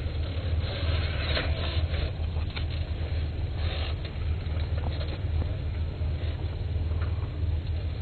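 Off-road vehicle engine running with a steady low rumble, with scattered short crunching or scraping noises over it.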